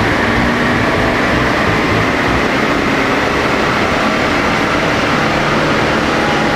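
BMW F20 120d's 2.0-litre turbodiesel pulling hard under full load on a chassis dynamometer, loud and steady, together with the rollers and tyres.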